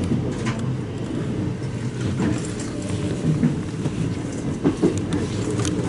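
Electric train running, heard from inside the front car: a steady low rumble of wheels on rail, with scattered sharp clicks and knocks as the wheels cross rail joints and points.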